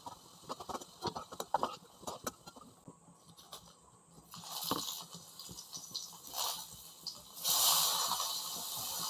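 Kitchen clatter: quick clicks and rattles of utensils or dishes, then a steady hiss that starts about seven and a half seconds in and becomes the loudest sound.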